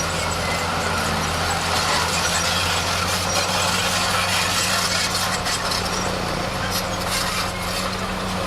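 Bulldozer's diesel engine running steadily, with scattered short metallic clicks over it.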